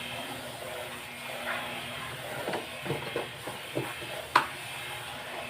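A steady hiss with a faint hum, and several short knocks and clicks of things being handled, the sharpest one about four seconds in.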